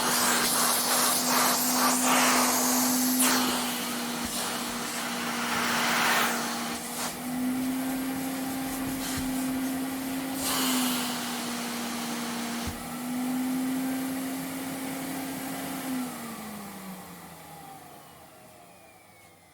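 Vacuum cleaner motor running with a steady hum, its pitch stepping slightly as bursts of rushing suction air come and go. About sixteen seconds in it is switched off and winds down, the hum falling in pitch and fading away.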